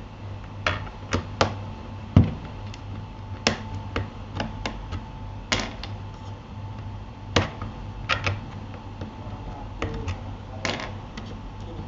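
Irregular sharp plastic clicks and taps on a Keychron K8 mechanical keyboard, roughly one or two a second, some much louder than others, over a low steady hum.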